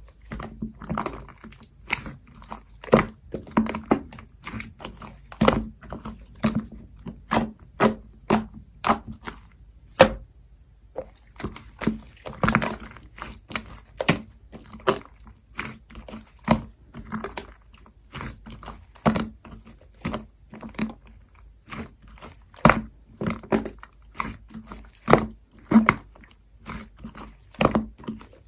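Hands pressing and squishing a soft cream slime, with irregular sharp clicks and pops from air squeezed out of it, and a short pause about ten seconds in.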